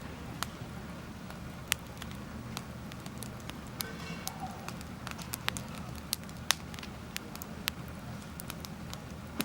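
Wood campfire crackling, with irregular sharp pops, a few of them much louder than the rest, over a low steady rumble.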